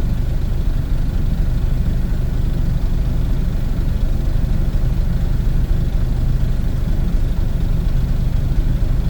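Dump truck's diesel engine idling steadily, a constant low rumble with no revving.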